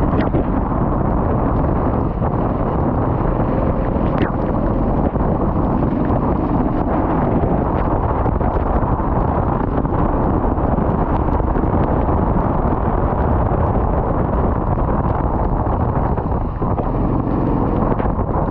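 Steady loud rumble of wind buffeting the microphone.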